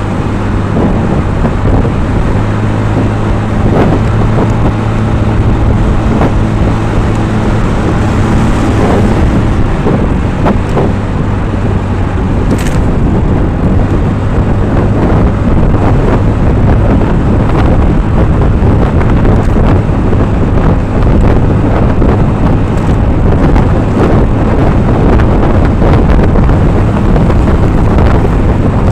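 Vehicle engine hum and road noise while riding, with wind buffeting the microphone. The engine hum is steady for the first ten seconds or so, then blends into the wind and road noise.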